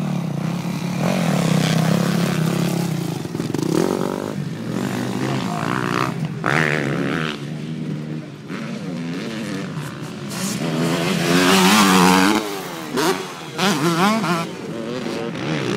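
Motocross bikes racing past on the track, their engines revving up and down in repeated rising and falling sweeps as the riders work the throttle and gears; loudest about two seconds in and again around twelve seconds.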